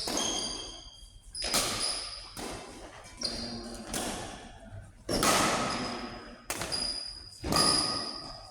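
Badminton rackets striking a shuttlecock in a doubles rally: about eight sharp hits roughly a second apart, each with a brief string ping, echoing in a large hall.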